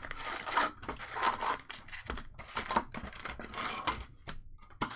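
Trading card packaging being torn open and handled: foil pack wrappers and cardboard crinkling and ripping in a run of noisy bursts.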